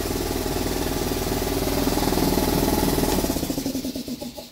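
Air compressor running steadily after repair, pumping air out into the open with no tank connected, then dying away about three and a half seconds in.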